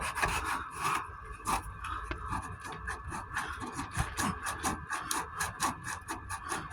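Hand sanding of half-cured fiberglass (cat hair) body filler with 40-grit paper: quick back-and-forth rasping strokes, about three a second. The filler is still soft, so it cuts away fast.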